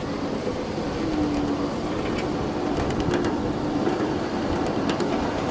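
Small open-car passenger train rolling along its track: a steady rumble with a few sharp clicks from the wheels and cars.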